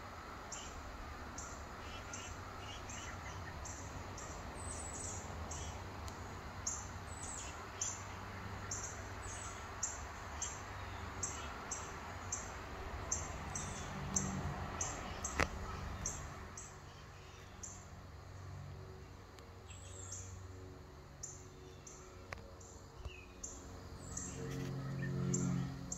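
Outdoor ambience with birds chirping, short high chirps repeating about twice a second over a steady low background noise. A low hum swells near the end.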